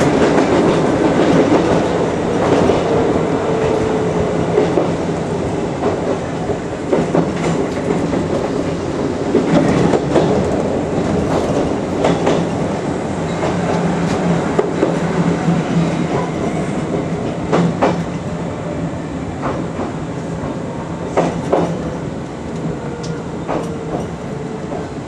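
Chichibu Railway 5000 series electric train heard from inside the driver's cab, running over jointed track and points with the wheels knocking over rail joints and switches. The running noise slowly gets quieter as the train slows into a station, with a faint falling whine near the start and again near the end.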